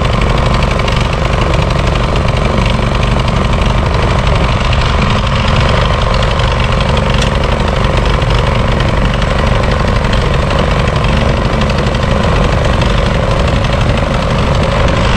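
Snow blower's small engine running steadily, a continuous even drone with a held hum and no change in speed.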